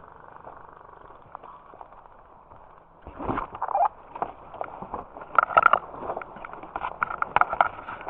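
Airsoft guns firing: scattered clusters of sharp pops and clicks that start about three seconds in, after a quieter stretch.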